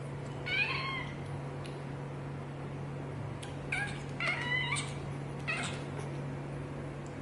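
Domestic cat meowing four times: one call about half a second in, then three more close together around the middle, over a steady low hum.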